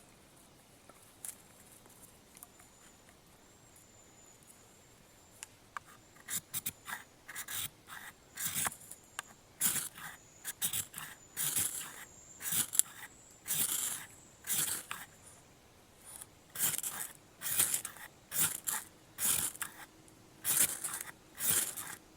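A knife's blade scraping in a long run of strokes, roughly one a second, some quick and some drawn out, starting about six seconds in.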